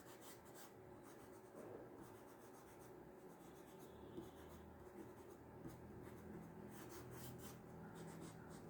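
Faint rubbing of colour being shaded onto drawing paper, light strokes on the page.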